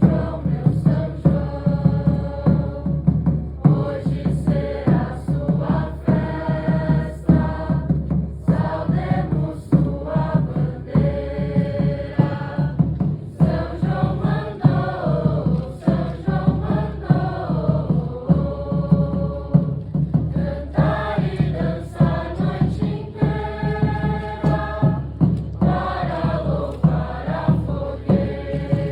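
Music: several voices chanting together like a choir, over a steady beat.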